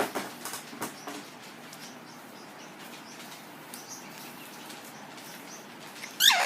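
Pet parrots: a few light clicks and taps and faint high chirps, then near the end one loud squawk that drops steeply in pitch.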